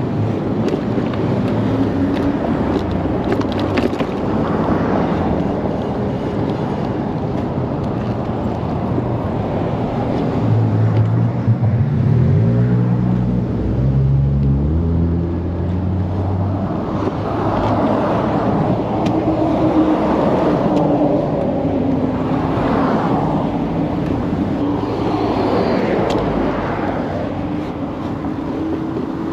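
ONYX RCR 80v electric moped riding along: steady wind and tyre noise with a faint motor whine that rises and falls in pitch as speed changes.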